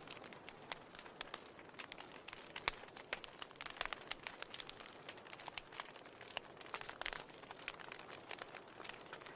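Wood fire crackling in a fireplace: irregular sharp pops and snaps, a few stronger than the rest, over a steady hiss.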